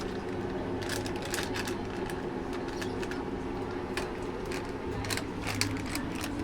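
A steady low mechanical hum with scattered clicks and taps over it.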